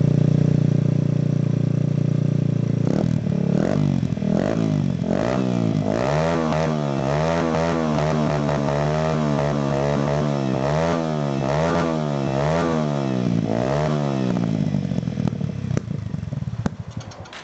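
Yamaha TW200's single-cylinder four-stroke engine running, at first at a steady idle, then revved up and down in repeated throttle blips for about ten seconds. Near the end it falls back and cuts out.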